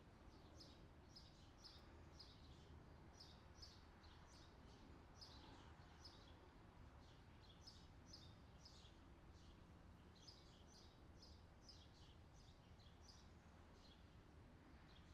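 Faint outdoor summer ambience: small birds chirping in quick, repeated short calls over a low, steady background hiss.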